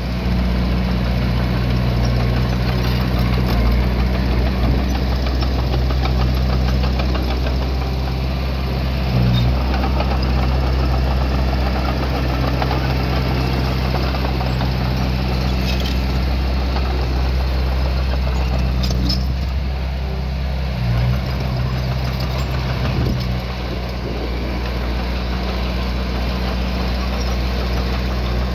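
Small bulldozer's diesel engine running steadily as it works, with two brief surges about nine and twenty-one seconds in and a few faint metal clanks.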